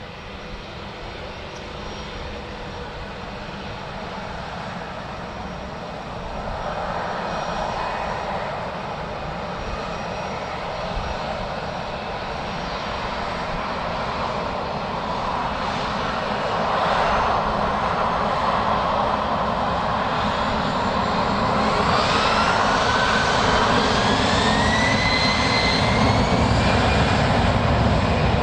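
Airliner jet engines running and growing steadily louder. Over the last few seconds a whine rises in pitch.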